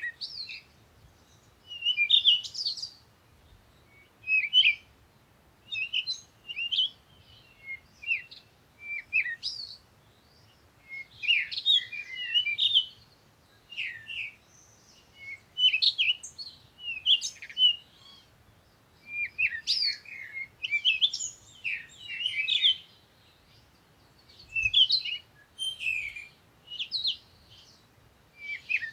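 Songbirds chirping in short, high phrases that come every second or two, one after another, with brief quiet gaps between them.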